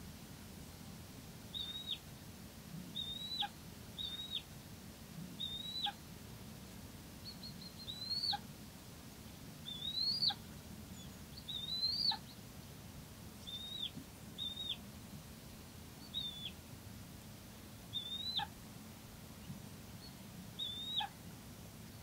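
A bird calling repeatedly with a short, high whistled note that rises and then drops steeply, about a dozen times, a second or two apart.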